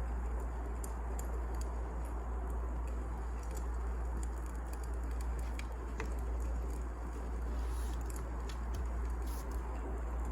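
Firewood burning in a fire: a steady low hiss and rumble with scattered sharp crackles and pops.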